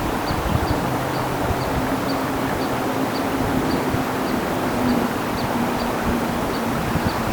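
Creek water flowing in a steady rush. A faint low hum runs through the middle, and a small high chirp repeats about twice a second.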